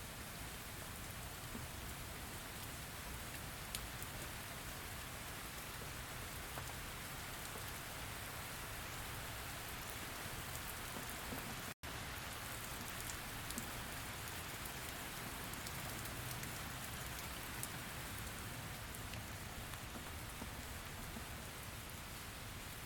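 Steady rain falling on a surface, an even hiss with scattered sharper drop ticks. The sound cuts out for a split second about halfway through, then carries on unchanged.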